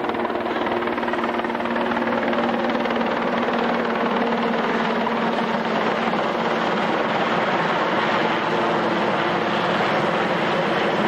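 A display aircraft's engines droning steadily overhead: a continuous rushing noise with a low, even hum.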